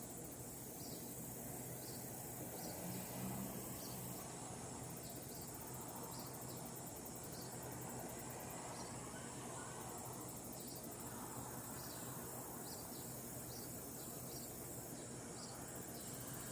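Insects chirping outdoors: a high, finely pulsed trill that swells for a moment every few seconds, with short chirps at a lower pitch scattered about once a second, over a faint steady low hum.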